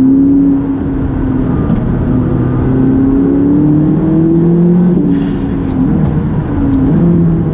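McLaren 570GT's twin-turbo V8 pulling under acceleration, its note rising steadily, then dropping at a gear change about five seconds in with a brief rushing hiss, and dropping again at a second shift near the end.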